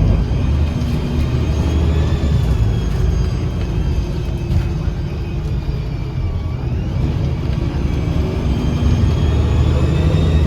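2009 Gillig BRT 40-foot bus heard from inside while under way: the engine and Voith transmission give a steady low drone. Over it sit several thin, high whistling tones that dip in pitch about six seconds in and then climb again. This is the strange whistle from the driveline that this bus makes as it gathers speed.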